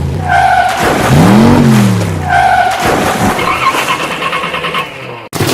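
Car engine sound effect revving up and falling back, with a tyre screech, twice about two seconds apart. Then a fast pulsing engine-like buzz, which cuts off abruptly near the end.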